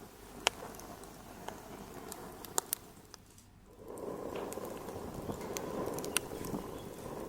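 Wood fire in a fireplace crackling, with scattered sharp pops over a steady hiss of burning. The hiss briefly dies down about halfway through, then comes back louder.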